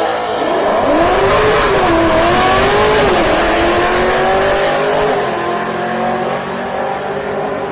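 Drag-racing car accelerating hard down the strip, its engine pitch climbing, dropping sharply at each gear change about 2 and 3 seconds in, then climbing steadily again.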